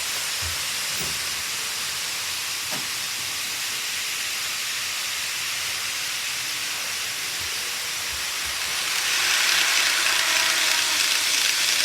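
Model railway trains running on the layout: a steady hiss of wheels and motors that grows louder about nine seconds in, with a few faint clicks.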